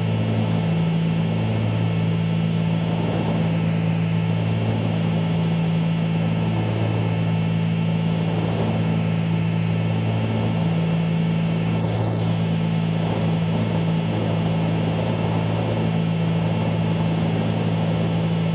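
Cockpit drone of a Cessna 310Q's twin piston engines and propellers in steady cruise: an even, unchanging hum over a constant hiss.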